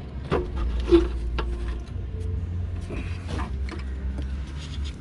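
Socket wrench on a wobble extension clicking and scraping against metal in irregular short strokes as an intake manifold bolt is worked loose, over a steady low hum.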